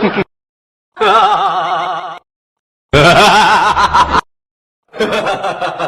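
Three short clips of human laughter played one after another, each about a second and a half long with a wavering pitch, separated by dead silence where each clip cuts off.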